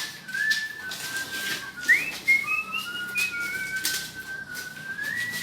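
A person whistling a tune, a single clear note stepping and sliding up and down in short phrases. A few sharp knocks or taps come in between, the loudest about two seconds in.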